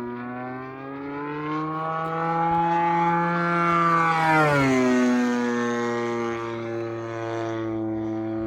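RC airplane's DLE 55cc single-cylinder two-stroke gas engine running as the plane flies past. It is loudest about four seconds in, and its pitch drops sharply as it passes.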